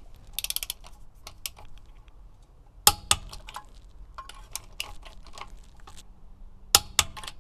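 Click-type torque wrench on wheel nuts: scattered light ratchet ticks, and twice a loud sharp double click, about three seconds in and near the end, as the wrench reaches its set tightening torque.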